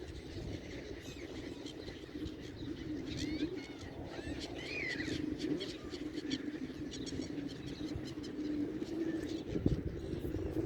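A flock of pigeons cooing continuously, with small birds chirping over it and scattered sharp clicks through the flock.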